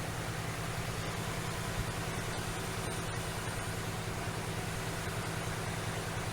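A vehicle engine idling steadily: a low, evenly pulsing hum under a constant hiss.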